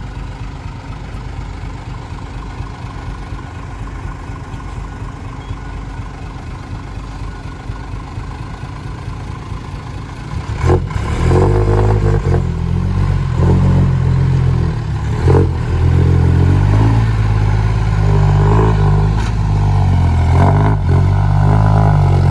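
A vehicle engine running steadily, then much louder from about halfway through, with revving that shifts in pitch.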